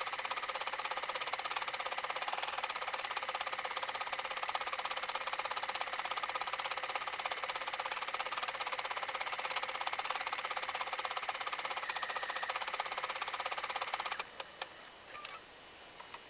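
Silver Viscount embroidery machine stitching steadily at speed with a fast, even needle rhythm. It stops about 14 seconds in as the embroidery pattern finishes, followed by a few faint clicks.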